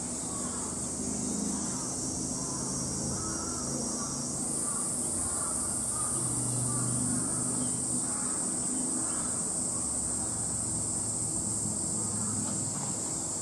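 Insects droning steadily at a high pitch, the drone shifting up a little about four seconds in, over a low background murmur.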